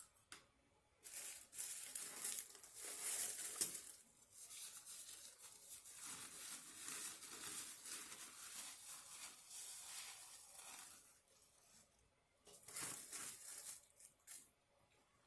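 Paper or plastic packaging being crinkled and torn by hand, in three rustling bouts with short quiet gaps between them.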